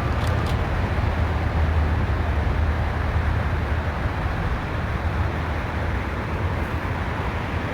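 Steady low rumble of a motor vehicle, with a couple of faint ticks just after the start.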